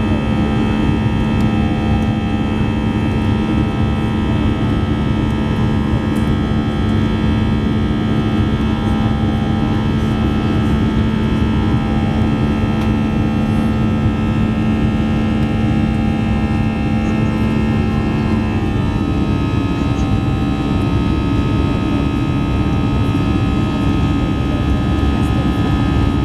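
Airbus A320 jet engines and cabin air system heard inside the passenger cabin: a steady hum of several held tones over a low rumble. About eighteen seconds in, the tones step to a slightly different pitch.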